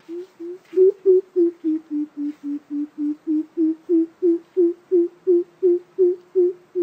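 Coucal (bìm bịp) calling: a steady series of about twenty short, deep hoots, roughly three a second. The first two are softer, the rest louder, and the pitch dips slightly in the middle of the run before rising back.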